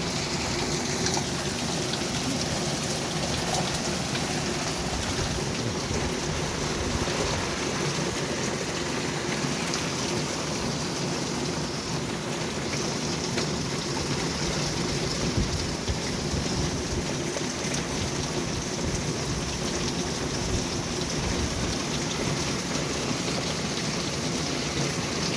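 Steady rain falling on old tin window covers, with thunder rumbling low underneath.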